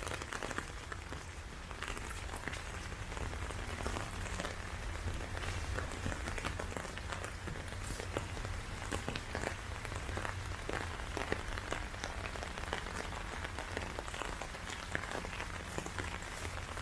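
Steady heavy rain falling, with many sharp close raindrop ticks over a low steady rumble.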